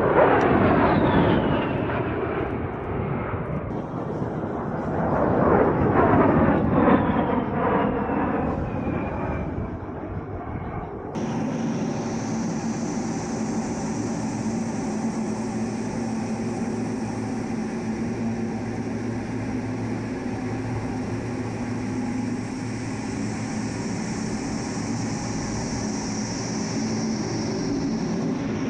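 A-10 Thunderbolt II's twin TF34 turbofans passing overhead twice, the whine falling in pitch as the jet goes by. About eleven seconds in the sound cuts abruptly to a steady jet drone with a constant high whine.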